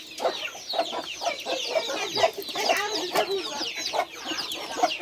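Domestic chickens: hens clucking under a dense chorus of chicks peeping, many short cheeps each sliding downward in pitch.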